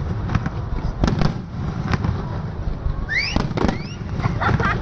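Fireworks display: a rapid series of bursts and cracks over a continuous low rumble, with two short rising tones a little past the middle.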